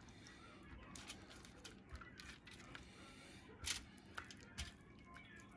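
Quiet kitchen handling noise: a few faint clicks and light knocks, the two loudest about three and a half and four and a half seconds in.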